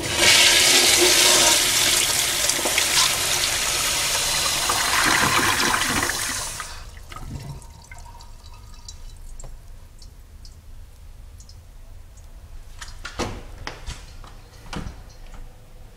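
Crane Presto flushometer toilet flushing: a loud rush of water lasting about six and a half seconds, then dying away within about a second as the flush valve shuts off.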